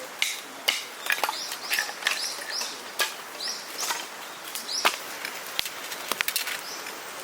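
Birds chirping in short, repeated high calls, with scattered sharp clicks and taps.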